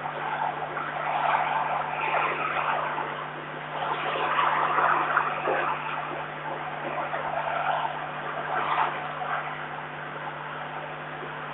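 Strong gusty wind buffeting the microphone, swelling and easing every second or two, over a steady electrical hum.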